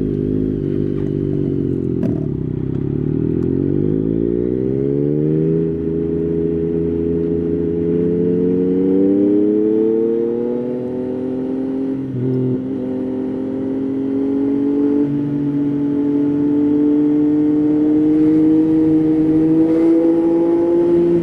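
Yamaha Tracer 9's 890 cc three-cylinder engine under way: the revs dip, then climb, drop at a gear change about five seconds in, and climb again before settling into a steady cruise that rises slowly.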